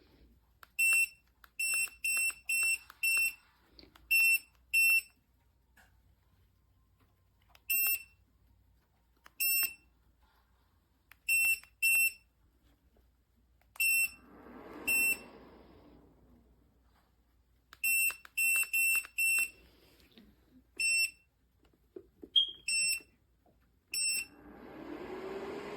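JIBUFI 1500W PTC space heater's control beeper giving about twenty short, identical high beeps in irregular clusters, one beep per button press. Near the end the heater's fan starts up with a steady whir.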